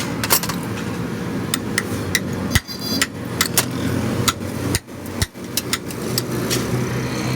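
Hand hammer striking a steel chisel on the anvil in about a dozen sharp, irregularly spaced blows, over a steady low mechanical hum.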